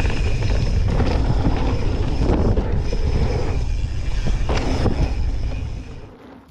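Mountain bike riding fast over a rough trail, heard from a rider-mounted camera: wind buffeting the microphone over tyre rumble and rapid rattling clicks and knocks from the bike. The noise fades away near the end.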